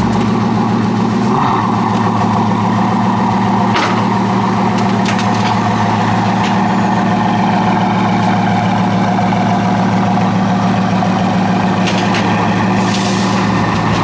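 Car engine running at a steady speed, its drone holding one pitch without revving up or down, with a few faint clicks over it.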